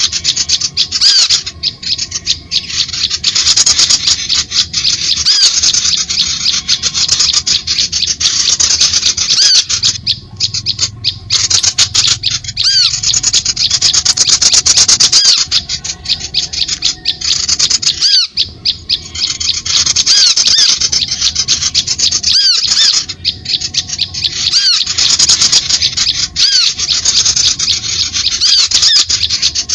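Bird-lure recording of small birds chirping and chattering in fast, high-pitched calls that repeat almost without a break, with short lulls about ten and eighteen seconds in.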